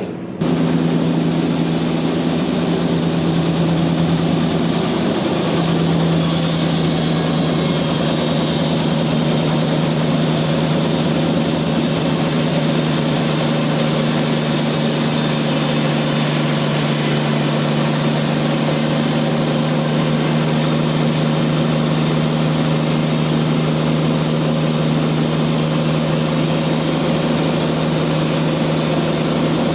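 Sawmill machinery running steadily with a constant hum and a dense noise. It starts suddenly about half a second in and holds steady.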